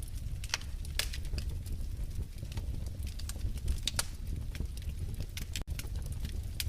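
Wood fire in a fireplace crackling, with irregular sharp pops and snaps over a low steady rumble. There is a momentary dropout near the end.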